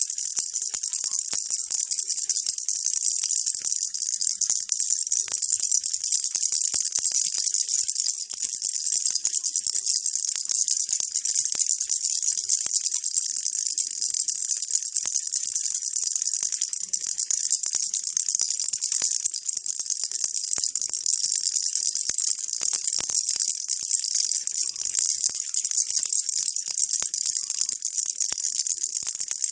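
Baby rattle shaken without pause: a steady, dense, high jingling with many small clicks.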